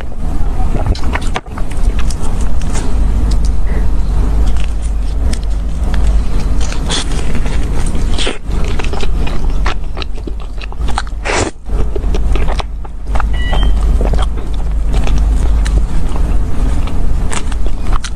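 Close-miked eating sounds: a person biting and chewing a soft cream-filled donut, with small sharp mouth clicks, over a steady low rumble.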